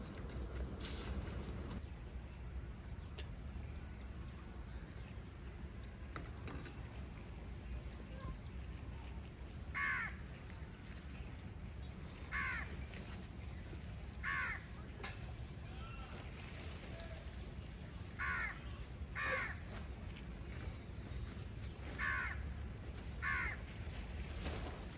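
A crow cawing about seven times at irregular intervals, each caw short and harsh, over a low steady rumble.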